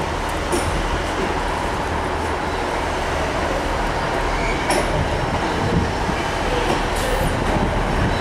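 Northern diesel multiple-unit passenger train moving slowly along the platform line, with a steady rumble of engine and wheels on rail. A couple of brief high wheel squeals come about halfway and near the end.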